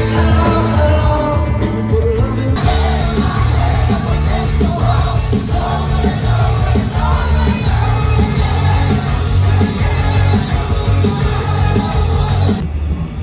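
A rock band playing live with a singer over heavy bass. The sound changes abruptly about two and a half seconds in and again near the end.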